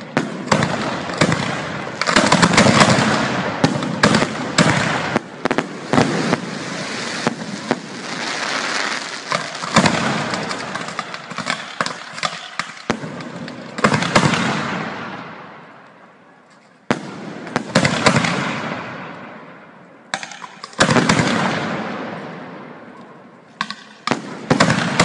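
Fireworks going off at close range: dense sharp bangs and crackling in several waves. The loudest bursts come about two, fourteen, seventeen and twenty-one seconds in, each dying away slowly.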